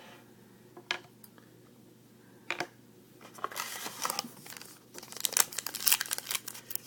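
A few light clicks, then from about three seconds in a trading-card pack wrapper being torn open and crinkled.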